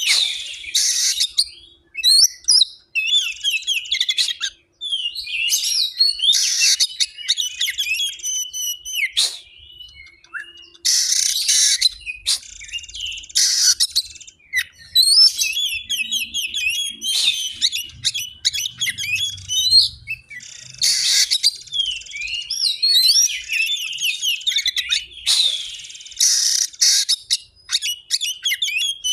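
Murai air song: rapid, high-pitched chirps, trills and whistled phrases, broken by short harsh rasping notes and brief pauses.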